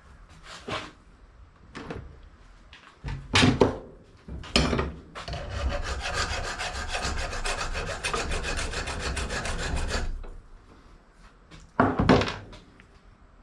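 Handling noise: several sharp knocks, then about five seconds of steady rasping scrape made of many quick ticks, then two more knocks near the end.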